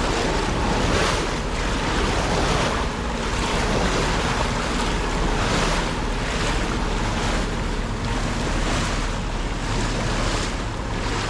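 Wind buffeting the microphone and water rushing past the hull of a sailboat under way, coming in irregular surges about once a second. Underneath runs the steady hum of the boat's auxiliary engine while motor sailing.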